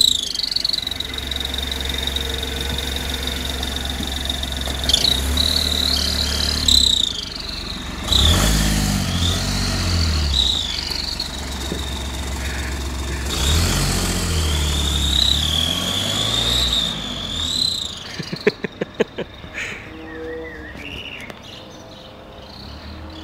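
Car turbocharger whistle: a high whine that rises and falls with each rev over the engine's low drone as the car drives off. Near the end a rapid run of clicks, then the sound fades away.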